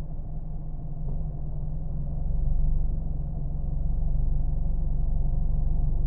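Car engine running with a steady low drone, growing louder about two seconds in and then holding even.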